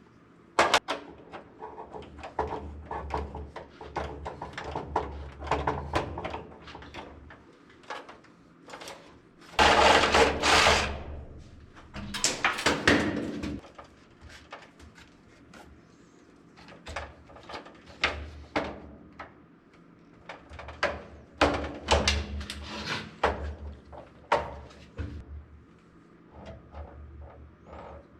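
Small metal parts and hand tools clicking and knocking in a steel electrical panel while ground bus bars are fitted, with two longer scraping, rustling bursts about ten and twelve seconds in.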